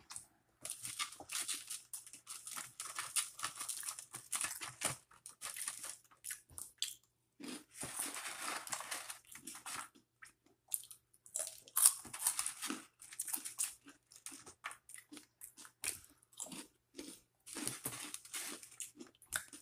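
A person chewing food close to the microphone: irregular crunching and chewing in spells with short pauses.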